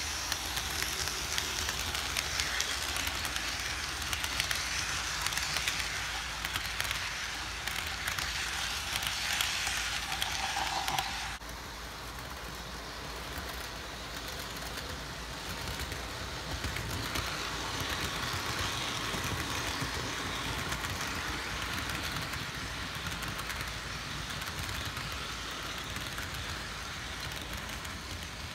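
Model train running along its track, a steady rolling rush, louder for the first third, then dropping suddenly to a quieter, steady rush.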